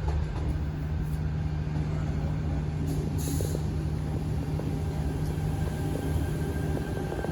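Sydney Trains Waratah Series 2 electric train standing at the platform, its equipment giving a steady low hum, with a short hiss of air about three seconds in.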